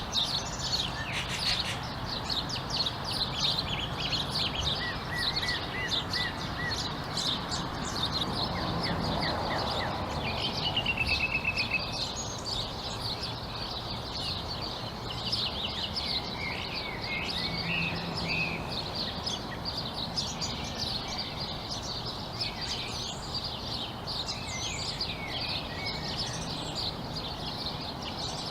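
Many small birds chirping and calling at once in a busy spring chorus, with rapid high chirps throughout, a short run of repeated notes and a buzzy trill partway through. Beneath them is a steady low background noise that swells briefly near the middle.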